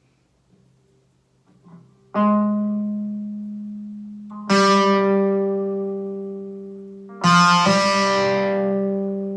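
Guitar chords struck three times, about two, four and a half, and seven seconds in, each left to ring out and slowly fade: the start of working out a new song.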